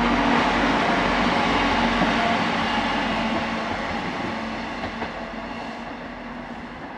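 Arriva Trains Wales Class 175 diesel multiple unit running past on the rails with a steady engine hum and wheel-on-rail rumble, fading away as it moves off into the distance.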